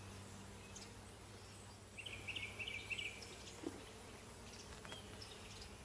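Honeybees buzzing faintly around an open hive during an inspection, with a brief run of high chirps about two seconds in.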